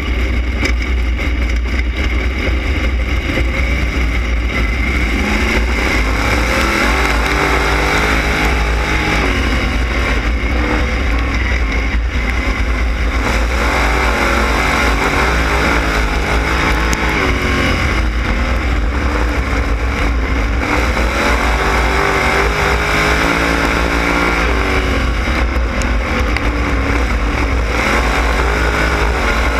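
305 sprint cars' V8 engines racing around a dirt oval, their pitch rising and falling over and over as the cars accelerate down the straights and lift for the turns, over a heavy low rumble.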